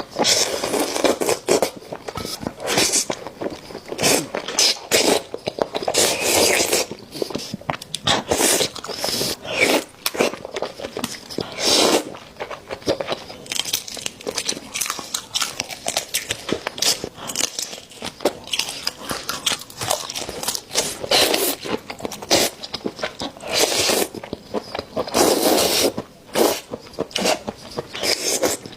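Close-up mukbang eating sounds: crisp, crunchy food being bitten and chewed, with irregular loud crunches every second or so.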